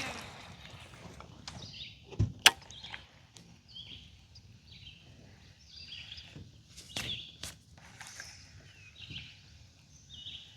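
Birds chirping in short repeated calls in the background, with a few sharp clicks or knocks. The loudest knocks come about two seconds in, and two more come about seven seconds in.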